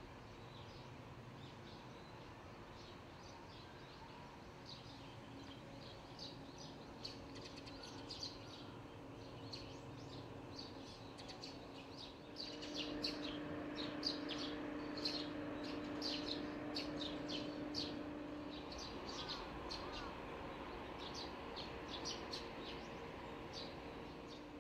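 Small birds chirping and twittering in short repeated calls over a faint steady hum. The chirps grow louder and more frequent about halfway through.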